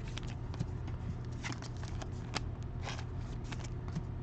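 Trading cards and their packaging being handled: scattered small clicks and brief rustles, faint over a steady low hum.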